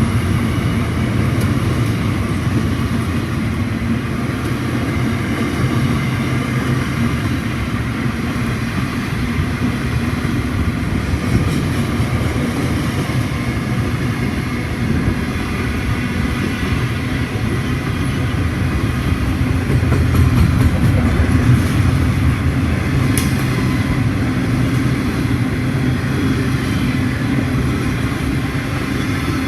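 Wagons of a steel freight train rolling past at close range: a steady, loud rumble of wheels on rail, with a few sharp clanks, the clearest about two-thirds of the way through.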